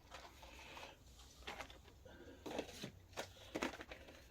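Faint handling sounds of packed parts being taken out: a few short rustles and light knocks, several of them in the second half.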